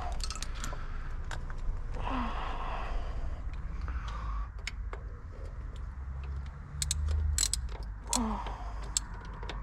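Hand tools working on metal under a car: scattered light clicks and clinks as a tool is fitted onto a bolt, with a couple of sighing breaths from the mechanic, over a steady low hum.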